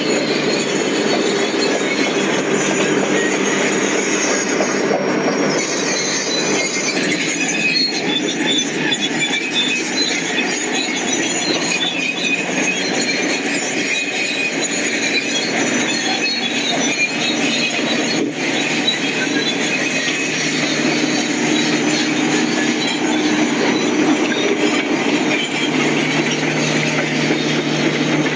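Bulldozer at work, its steel crawler tracks squealing and clanking continuously over the steady running noise of the machine.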